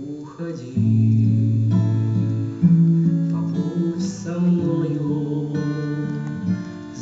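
Music led by acoustic guitar, with held low notes changing about once a second.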